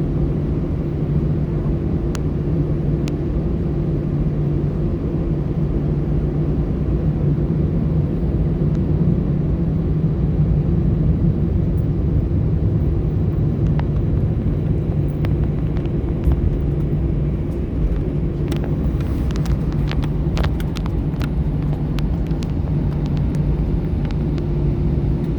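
Cabin noise of an Airbus A320 taxiing: a steady low drone from the idling engines and the airframe rolling. In the last third come scattered light clicks and rattles.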